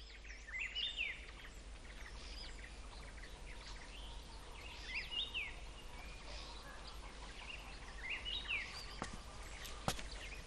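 Quiet outdoor ambience with birdsong: a songbird repeats the same short up-and-down chirping phrase three times, about four seconds apart. There is a steady low hum underneath and a sharp click near the end.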